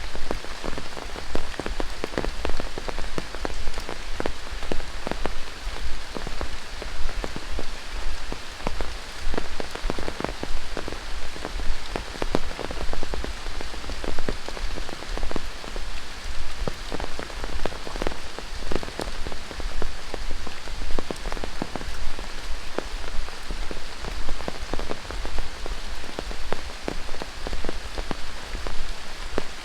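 Steady rain falling in a tropical rainforest: many sharp, close drop hits over an even hiss, unchanging throughout.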